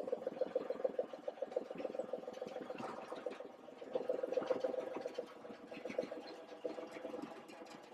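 An engine running with a quick, even pulse. It came on suddenly just before, consistent with having just been started.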